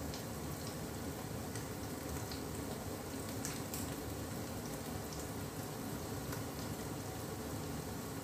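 Chopped onions frying in desi ghee in a stainless steel pot: a steady sizzle with a few faint pops about three and a half seconds in.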